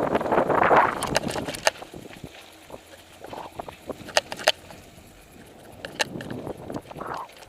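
Mountain bike riding along a dirt trail: a loud rush of wind and rolling noise for about the first second, then quieter tyre noise with scattered sharp clicks and rattles from the bike.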